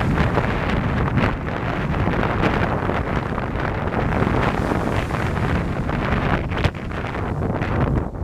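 Heavy wind buffeting the microphone over the rush of water past the hull of a 53 ft Irwin sailboat sailing fast on a starboard tack, with occasional stronger gusts.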